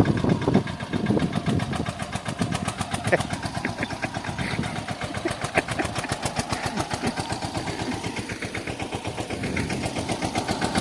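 Farm tractor's diesel engine running with a steady, rhythmic chug while it pulls a tine cultivator through a field.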